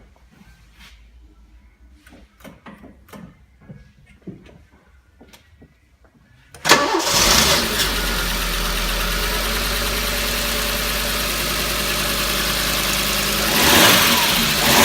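Audi 100 CL 5S's carburetted inline five-cylinder engine cold-starting: a few faint clicks, then it fires suddenly about six and a half seconds in and settles into a steady idle, swelling briefly near the end.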